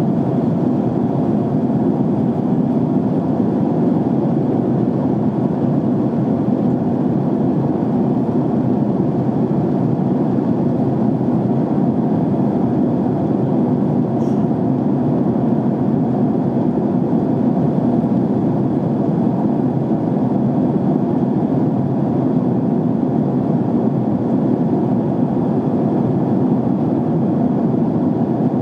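Airliner cabin noise in flight: a steady, even rush of airflow and engine sound, heaviest in the low and middle range, with no change in level.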